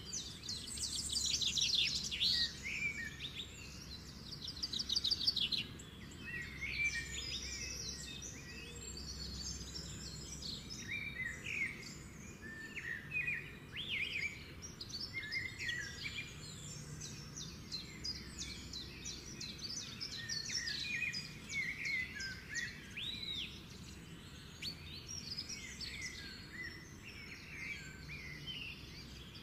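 Small birds chirping and twittering continuously, with fast buzzy trills about a second in and again a few seconds later, over a faint low hum.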